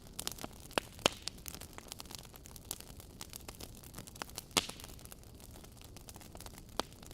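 Wood fire burning in a fireplace: irregular crackles and small pops over a soft low hiss, with sharper snaps about a second in and about four and a half seconds in.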